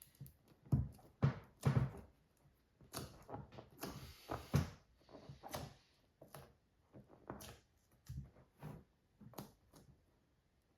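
Irregular thumps, knocks and rustles of hands handling the repair materials, with short pauses between them.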